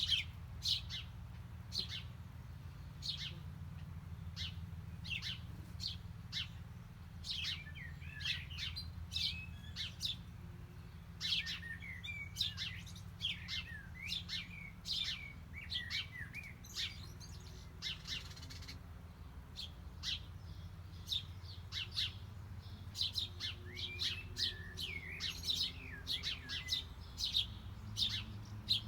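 Small songbirds chirping: many short, high, quick chirps, several at a time in places, over a steady low hum.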